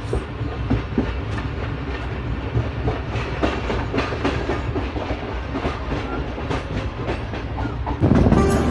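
Passenger train running on the track, a steady rumble with its wheels clacking over the rail joints. Near the end it cuts abruptly to music.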